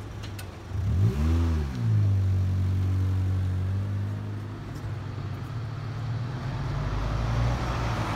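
A car engine revs up and drops back about a second in as it pulls away, then runs at a steady note. Near the end a bus's engine and tyre noise build as it comes closer.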